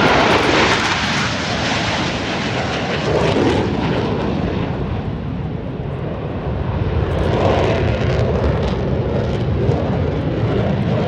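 Aircraft engine roar from a plane flying past, loudest at the start, easing off, then swelling again about seven seconds in.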